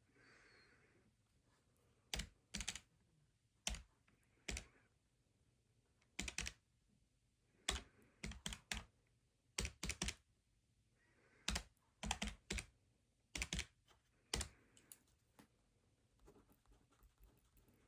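Keys tapped in short, irregular runs of a few sharp clicks with pauses between them, as in data entry while working through bookkeeping problems, with soft rustles in between.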